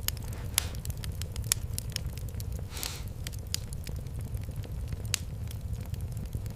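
Wood fire crackling, with irregular sharp pops over a low steady rumble and a brief hiss about three seconds in.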